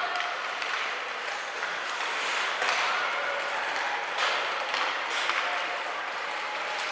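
Ice hockey rink sound: a steady wash of skates on ice and crowd noise with distant shouts, broken by a few sharp knocks of sticks and puck, about a second or so apart in the middle.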